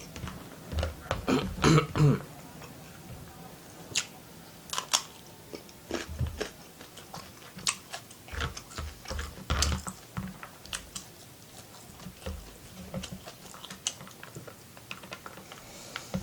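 Close-miked chewing and mouth sounds of a person eating spicy beef fried rice: wet smacks and small clicks scattered throughout, with a louder cluster about a second in.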